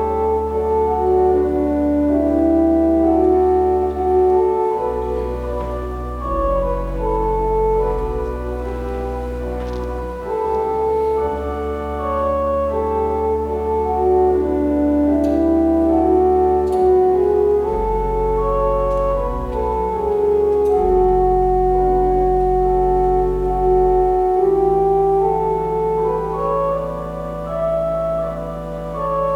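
Organ playing a slow piece in sustained chords over long-held bass notes, which change every few seconds.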